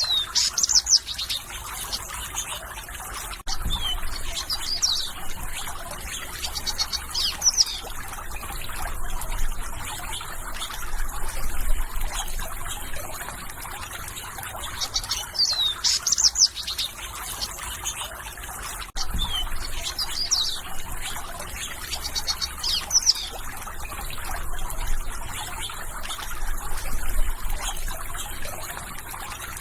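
Small birds chirping in short, quick downward-sweeping calls, scattered through the stretch, over the steady trickle of running water.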